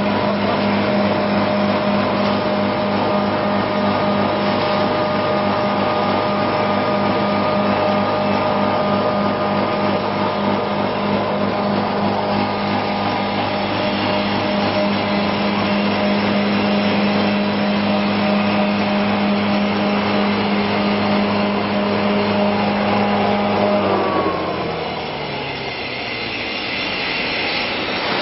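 Small electric grinder machine running at a steady speed, then switched off about 24 seconds in, its hum falling in pitch as it winds down, with a steady background noise continuing.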